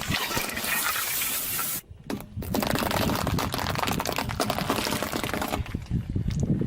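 A car tyre rolling over and crushing objects: a hissing spray for the first two seconds, as if liquid is forced out, then after a brief pause a long stretch of dense crackling and crunching.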